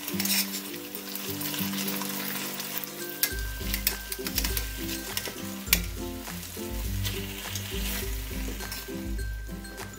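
Chicken pieces sizzling in barbecue sauce in a stainless steel frying pan, with metal tongs clicking against the pan as the pieces are turned over. Background music plays along, and a bass line joins about three seconds in.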